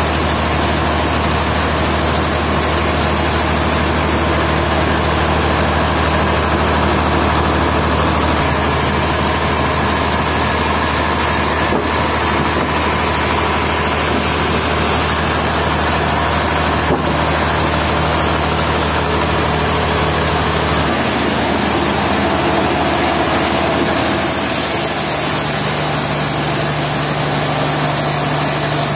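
Sawmill machinery's engine running steadily, a loud continuous drone whose low hum shifts in pitch about two-thirds of the way through.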